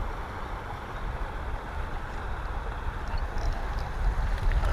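Wind buffeting an action camera's microphone outdoors: a steady low rumble with hiss above it, and a few faint ticks in the last second or two.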